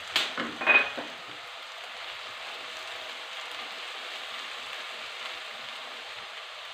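Chopped onions and ground spices sizzling in hot oil in a nonstick kadai as a silicone spatula stirs them, a steady hiss with a few sharp scrapes of the spatula on the pan in the first second. The spices have just gone in over lightly browned onions and are frying in the oil.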